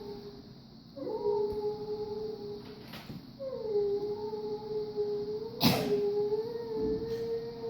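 A voice holding long, steady howl-like tones in a sound-art performance: a short one about a second in, then a longer one, each sliding up into the note. A sharp knock comes about two-thirds of the way through.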